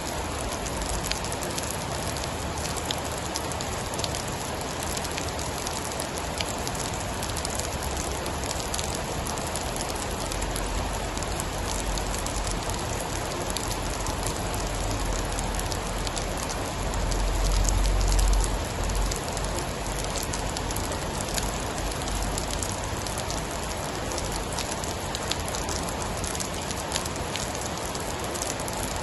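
Steady heavy rain, with scattered sharp ticks of drops throughout. About seventeen seconds in, a low rumble swells up for a couple of seconds and fades.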